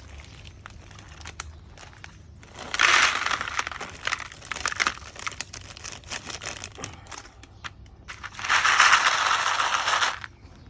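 Rustling and crinkling with scattered clicks, and two loud crinkling stretches of about a second or so each, one around three seconds in and one near the end.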